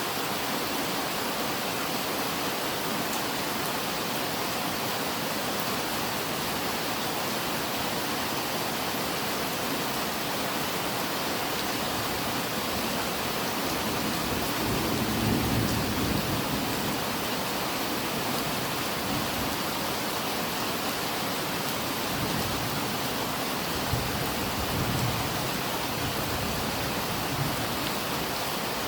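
Steady rain falling, an even hiss, with a low rumble swelling about halfway through and again, more weakly, later on.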